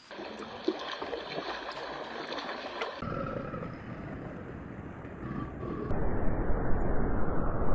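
Outdoor wind and water noise in three abruptly changing stretches. The last is the loudest, with a deep rumble of wind buffeting the microphone.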